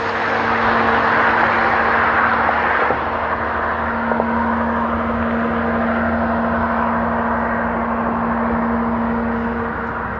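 Nissan 350Z's 3.5-litre V6 with aftermarket headers and a titanium exhaust, running at a steady engine speed with an unchanging hum. A louder rushing noise over the first three seconds eases off.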